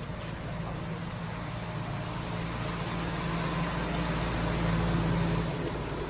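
A steady low rumble that builds toward about five seconds in and then drops away, with a thin, steady high-pitched whine above it.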